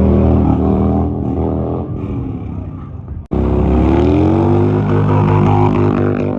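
Heavy motorcycle engine running hard, its pitch sagging, then cutting off abruptly just past three seconds before coming back revving up and holding at high revs.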